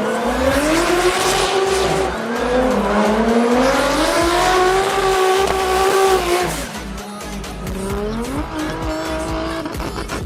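Toyota Supra engine revving through its exhaust, the pitch climbing and falling several times and dropping lower and quieter about two-thirds of the way through. Music with a heavy bass beat plays underneath.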